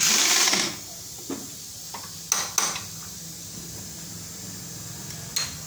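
A short loud hiss that stops within the first second, then a few sharp metal clinks of tools and engine parts being handled, two close together about halfway through and one more near the end.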